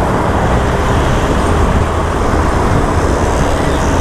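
Motorcycle on the move: a steady rush of engine and wind noise, with a heavy low rumble from wind buffeting the microphone.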